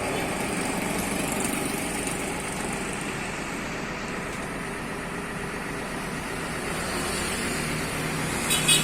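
Intercity bus's diesel engine running steadily at low revs, with a brief high-pitched chirp near the end.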